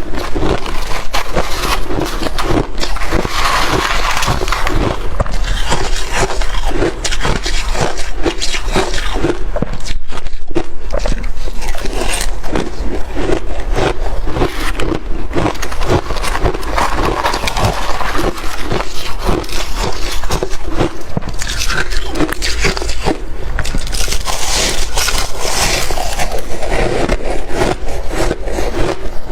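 Close-miked chewing and crunching of freezer frost: a dense, unbroken run of rapid crunches, swelling louder with each fresh bite.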